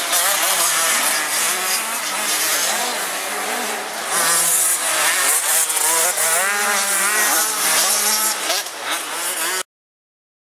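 Several 85 cc two-stroke motocross bikes revving hard on the track, their engine pitch rising and falling with throttle and gear changes. The sound cuts off suddenly near the end.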